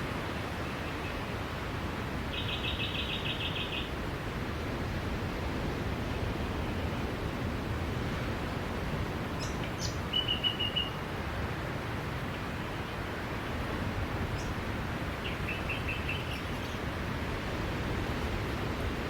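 Steady wash of sea surf on a beach, with a small bird calling over it in three short, fast trills of high chirps, the first about two seconds in.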